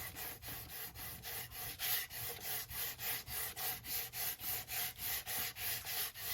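Hand sanding with a small piece of sandpaper: quick back-and-forth scratchy strokes, about five a second, scuffing a glossy paper surface so the glue will grip.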